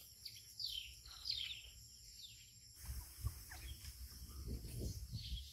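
Birds calling in the background, a run of short downward-sliding chirps. About three seconds in, the sound changes to a low rumble with a few soft thumps.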